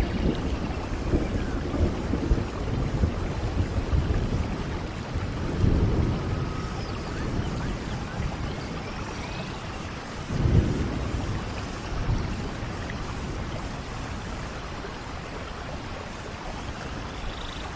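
Steady heavy rain with low rumbles of thunder, the strongest about six seconds in and again about ten and a half seconds in, easing off toward the end.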